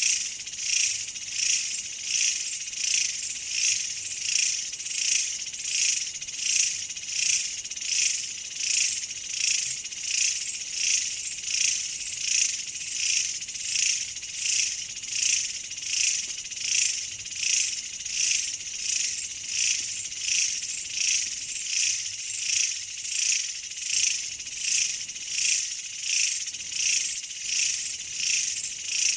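Insects calling in a steady high-pitched chorus that swells and fades in an even rhythm, a little over once a second.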